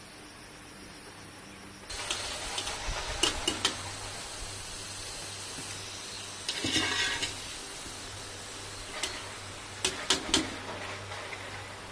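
Kitchen cooking sounds: utensils and cookware knocking and clattering over a steady hiss, with a longer clatter about seven seconds in and a few sharp knocks near the end.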